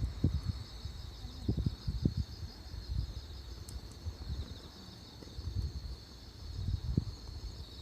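Insects chirping steadily in a high, finely pulsing trill, over irregular low rumbles and thumps that are louder than the chirping.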